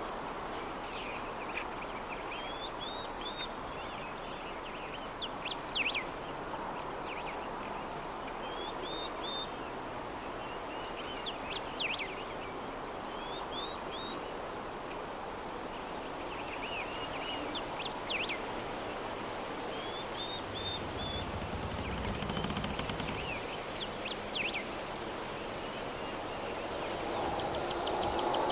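Steady soft breeze with small birds chirping over it. The chirps come in short runs, with a sharper call recurring about every six seconds.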